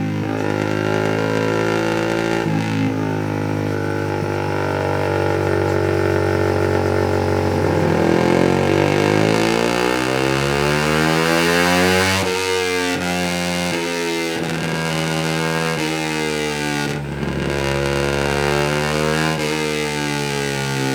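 Suzuki GSX-R150's single-cylinder engine through a Yoshimura R77 full-system exhaust, revving on a dynamometer. The pitch climbs to a peak about twelve seconds in, drops, then climbs and falls again, with brief breaks in the note twice.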